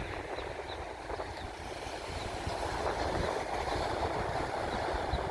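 Sea surf washing on the shore, the wash swelling over a few seconds, with wind rumbling on the microphone.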